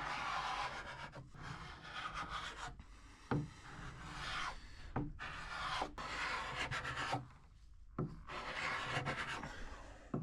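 A hand tool rubbing over wood in strokes of a second or two, stripping the old varnish from a mahogany dresser, with a sharp knock now and then between strokes.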